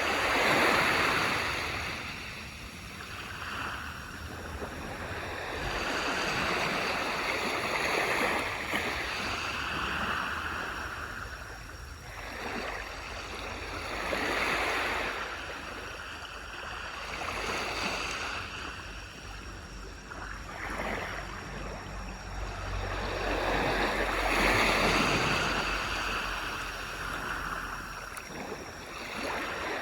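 Small waves breaking and washing up the shore, each surge swelling and fading over a few seconds, about five surges in all.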